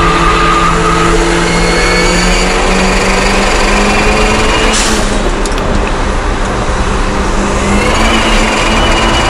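Daihatsu Copen with a dog-gear transmission, heard from inside the cabin at full track pace: the engine note and a high gear whine rise steadily as the car accelerates. About five seconds in the note breaks sharply, then runs on at a steadier pitch, with another sharp break near the end.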